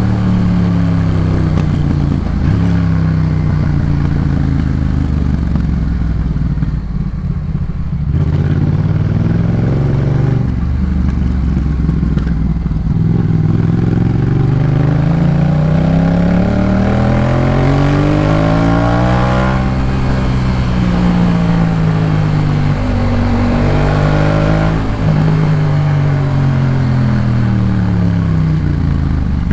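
Yamaha MT-07's parallel-twin engine through a Jeskap K4 full aftermarket exhaust, ridden under way. The engine note falls as the bike slows, climbs through the revs about two-thirds in, drops away, then rises and falls once more near the end.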